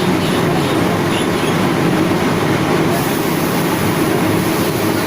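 Steady low rumble of a moving vehicle, running without a break.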